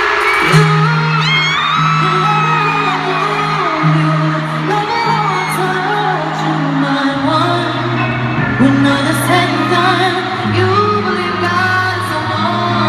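Live pop concert music in an arena: held bass notes that step in pitch every second or two under singing with high gliding vocal runs, and whoops from the audience.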